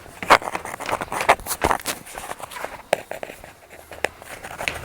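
Irregular footsteps with knocks and rustling from handling close to the microphone, several sharp clicks a second.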